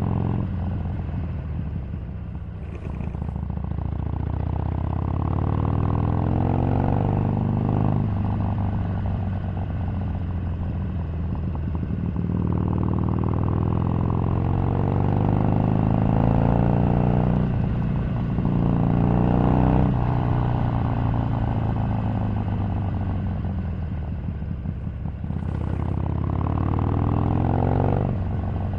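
Harley-Davidson 883's air-cooled V-twin engine on the move. Its pitch rises and falls repeatedly as the bike accelerates, eases off and pulls away again.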